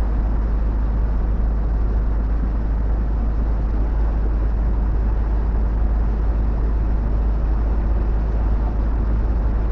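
Steady drone of a semi-truck driving, heard from inside the moving cab: engine and road noise with a strong, deep low rumble and no changes in pace.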